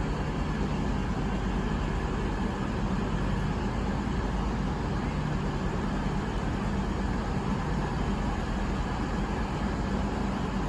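Steady low hum of a train's engines at a standstill, holding an even pitch without rising or falling.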